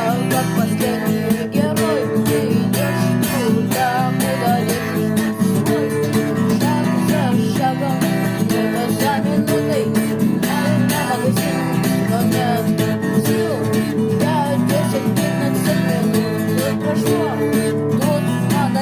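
Instrumental passage of a guitar band track: strummed rhythm guitar and bass over a drum-machine beat, with a lead guitar playing short bending phrases.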